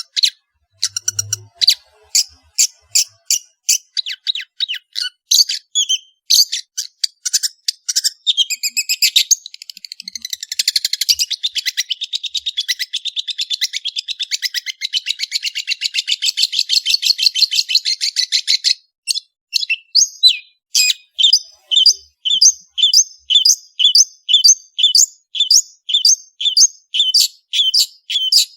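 Long-tailed shrike (cendet) in full song: quick, sharp, high notes, then a fast rattling trill lasting about nine seconds from around the middle. It then switches to a steady series of repeated notes about two a second.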